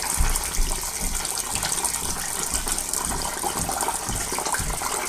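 Water gushing steadily out of a steam boiler's drain as the boiler is washed out.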